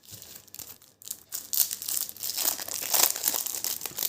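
Trading-card packet wrapper being torn open and crinkled: a crackling, rustling tear that starts softly and grows louder about a second in.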